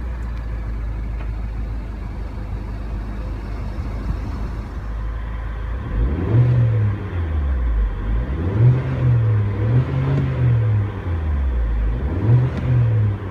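2015 MINI Cooper S Countryman's 1.6-litre turbocharged inline-four idling steadily, then revved four times from about six seconds in, each rev rising in pitch and falling back to idle.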